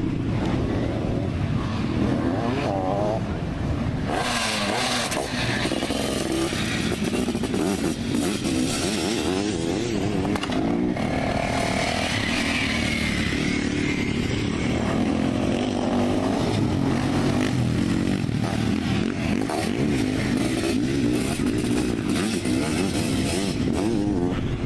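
Racing sidecarcross outfits' motorcycle engines revving and accelerating on a dirt track, the pitch rising and falling with the throttle, with one outfit passing close by about halfway through.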